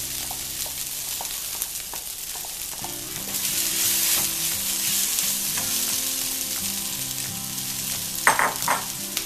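Crushed cooked chicken and onion masala sizzling in oil in a nonstick pan while a wooden spatula stirs it, the sizzle growing louder about three seconds in. A short burst of voice near the end.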